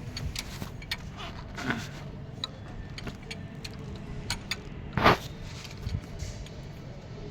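Metal tools and engine parts clinking and knocking over a steady low hum, with one louder clatter about five seconds in.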